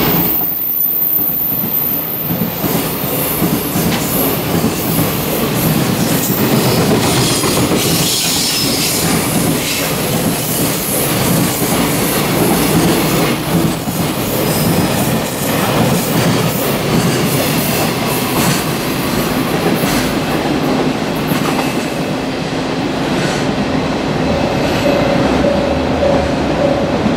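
A long container freight train passes close by at speed, loud and steady. Its wagon wheels clatter over the rail joints in a quick irregular run of knocks, with some wheel squeal.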